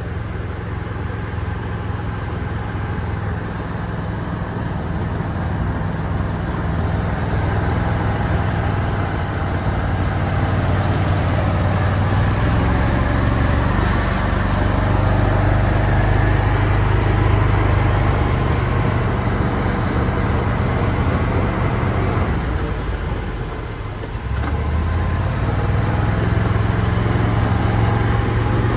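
Argo amphibious ATV engine running steadily while driving, easing off a little over twenty seconds in, then picking up again.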